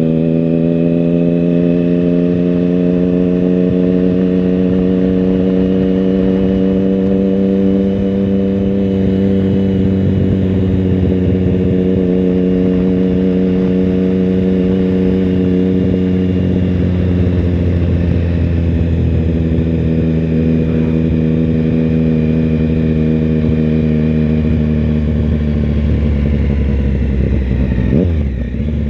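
Triumph Tiger Sport 1050's inline three-cylinder engine running steadily under way, heard from on board the motorcycle. Its note eases slowly lower over the first half and then holds. Near the end it dips briefly and the note changes.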